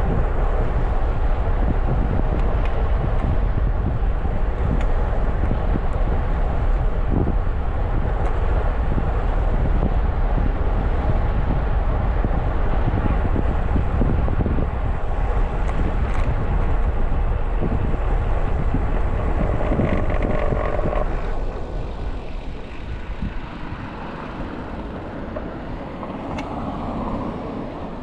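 Wind rushing over an action camera's microphone while riding a road bike, with vehicle noise beneath. It drops off sharply about three-quarters of the way through.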